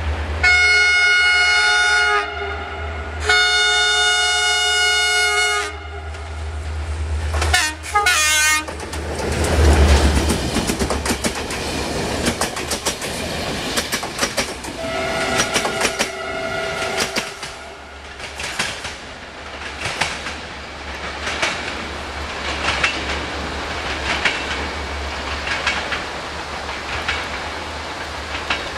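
Diesel locomotive sounds its horn in two long blasts and a short broken toot, then passes hauling passenger coaches. The wheels clatter and click over the rail joints as the coaches go by, with a brief squeal midway.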